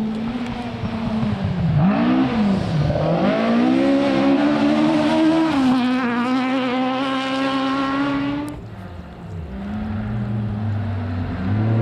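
Rally car engine under hard acceleration: a lift and blip early on, then climbing in pitch through the revs with one upshift about halfway through. The note cuts off abruptly about three-quarters of the way in, and a lower engine note from another car follows.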